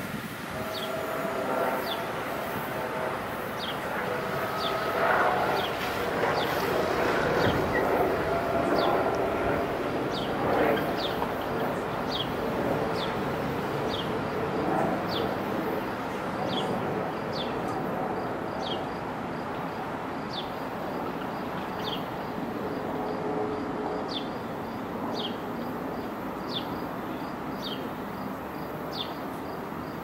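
A train running past, loudest about five to eleven seconds in, with steady whining tones over its rumble, then easing off. A bird repeats a short falling chirp about once a second.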